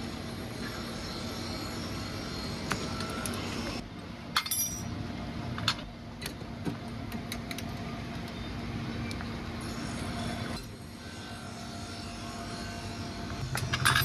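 Scattered sharp metallic clinks of hand tools and engine parts being handled, over a steady background hum.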